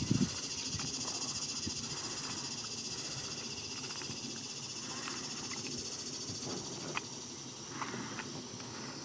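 Outdoor insect chorus: a steady high, finely pulsing buzz of insects such as crickets or cicadas. A few short faint ticks or chirps come in the second half.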